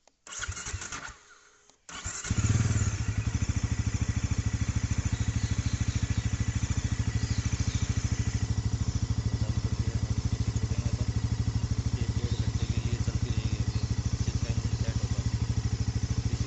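Bajaj Pulsar NS400Z's single-cylinder engine being cold-started on the electric starter: a couple of seconds of cranking, then it catches with a brief blip and settles into a steady, evenly pulsing idle. The brand-new engine is being left to idle as a break-in warm-up.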